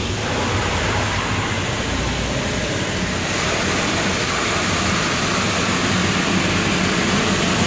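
Automatic truck wash spraying water over the truck, a steady rushing hiss heard from inside the cab.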